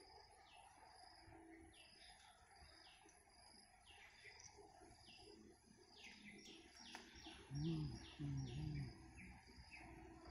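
Small birds chirping, faint: a short, high, falling note repeated over and over, coming fastest about two-thirds of the way through. Near the end, two brief low voice-like sounds stand out above the birdsong.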